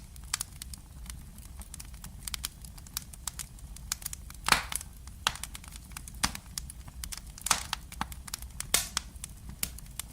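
Irregular crackles and sharp clicks over a low steady hum, with a few louder pops scattered through.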